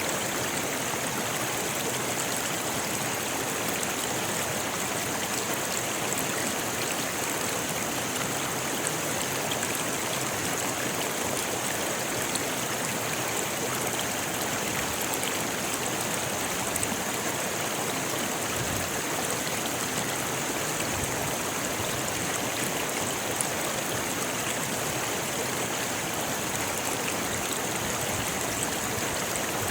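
Rocky river flowing: a steady, even rush of water over stones.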